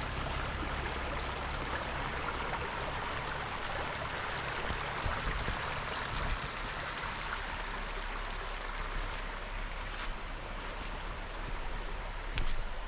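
Steady rushing of a fast-flowing brook, with a couple of brief knocks near the end.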